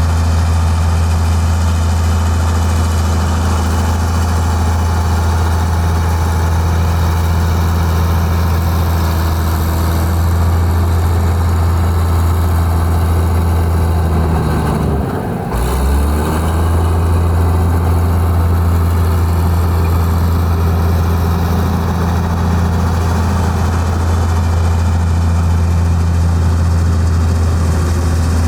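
Heavy diesel engine of construction machinery running steadily with a deep, even hum. About halfway through, its pitch and level dip briefly and then come back.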